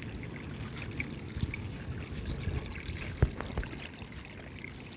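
Spring meltwater stream trickling and gurgling, with a few dull knocks, the loudest about three seconds in.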